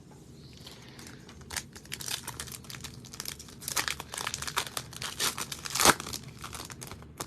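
Plastic wrapping on football trading card packs being torn open and crinkled, in quick crackling bursts with the sharpest rip about six seconds in.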